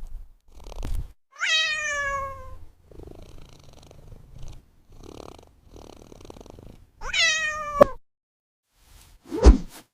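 Domestic cat meowing twice, each long meow falling in pitch, with quieter purring between the calls. A short thump comes near the end.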